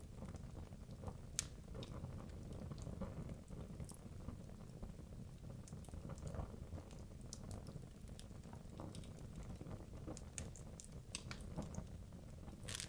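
Wood logs burning in a fireplace: a low steady rumble of flame with irregular sharp crackles and pops, one louder pop about a second and a half in and a quick run of pops near the end.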